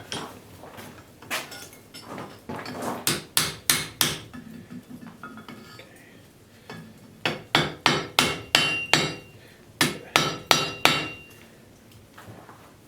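Blacksmith's hammer striking a hot railroad spike on the anvil to draw it out. The blows come in two quick runs, about three or four a second, with a pause of about two seconds between; a few strikes ring briefly.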